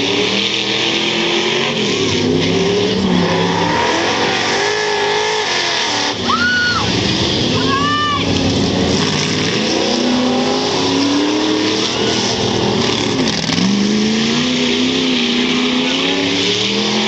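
Several dirt-track stock car engines racing around the oval, pitch rising as they accelerate and dropping as they back off, over and over in a continuous loud din. Brief high squeals come about six and eight seconds in.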